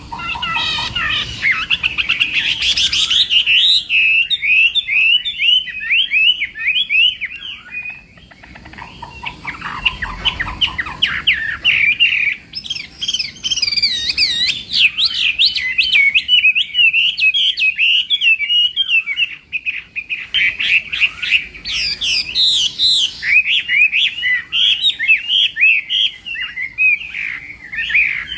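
Chinese hwamei singing a fast, varied song of rich whistled phrases, almost without pause, with a short break about eight seconds in.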